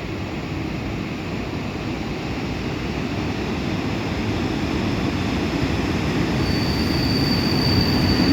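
Passenger train hauled by an EP07 electric locomotive running into the station, its rumble growing steadily louder. About six and a half seconds in, a high, steady squeal from the carriages starts.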